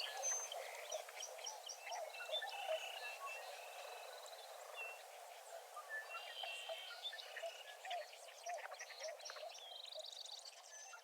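Dawn chorus at a wetland: many birds chirping, trilling and calling over one another, over a steady chorus of frogs croaking.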